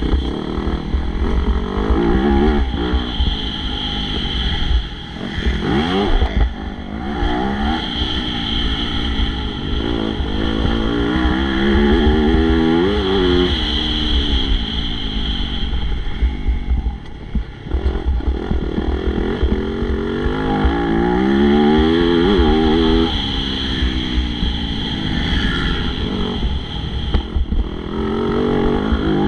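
MX2-class motocross bike engine revving hard, its pitch climbing and dropping again and again as the rider accelerates, shifts and backs off around the track.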